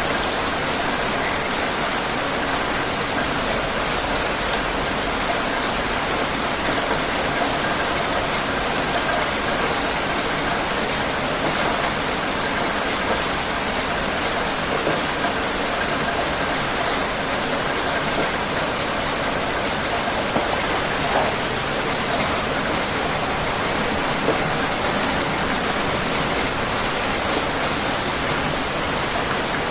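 Heavy rain falling steadily, an even dense hiss with small scattered drop impacts.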